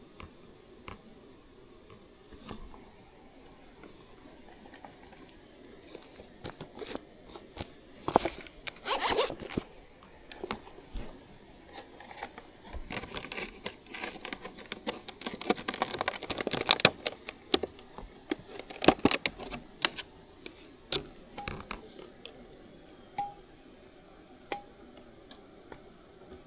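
Irregular rustling, scraping and sharp clicks of objects being handled close to the microphone, busiest in the middle and thinning out towards the end.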